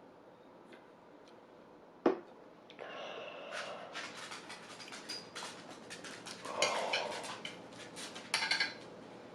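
Cutlery on a plate while eating. A sharp knock about two seconds in, then several seconds of quick clicks, clinks and scrapes.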